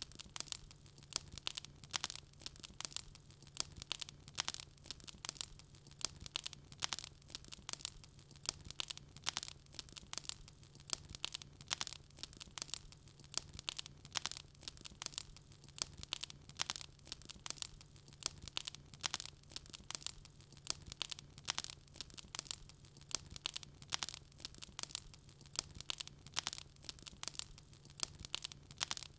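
Wood fire crackling steadily, with dense irregular sharp pops and snaps, several a second, over a faint low hum.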